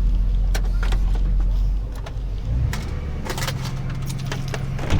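Tow truck engine and road noise droning, then dropping off and settling into a lower steady hum about two seconds in, with a few scattered clicks and knocks.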